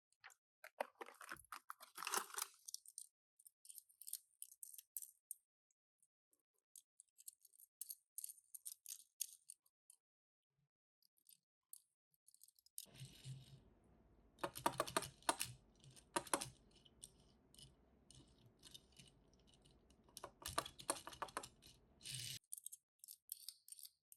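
Faint, scattered clicks, taps and small rattles of Tomica die-cast toy cars and their packaging being handled, coming in clusters with short pauses between. A few sharper clicks stand out around the middle and again near the end.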